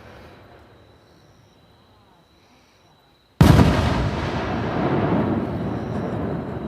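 Aerial firework shell bursting with a sudden loud boom about three and a half seconds in, followed by a long echo that fades slowly; before it, the echo of an earlier burst dies away.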